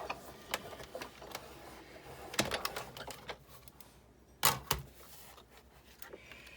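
Hand-cranked Sizzix Big Shot die-cutting machine and its cutting plates being worked: an irregular run of clicks and knocks, with two louder knocks about four and a half seconds in.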